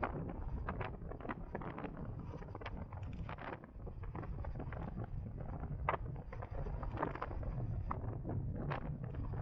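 Wind buffeting the microphone with low road rumble while riding an electric motorcycle at speed, full of short crackling gusts.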